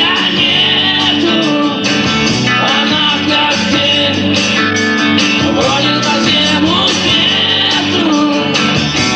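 Live rock band playing: distorted electric guitars, bass and drums, with a singer's voice over them.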